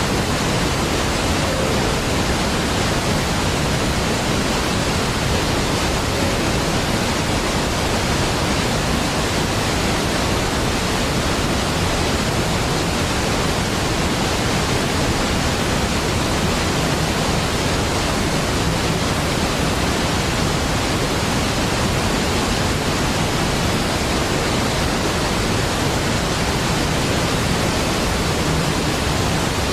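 Large waterfall giving a steady, even rush of falling water, spread evenly from deep rumble to high hiss, with no change or break.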